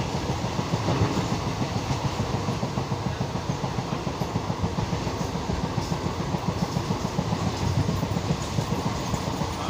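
A train running on the tracks: a steady, rapid low rumble and rattle of wheels and carriages on the rails that holds evenly throughout.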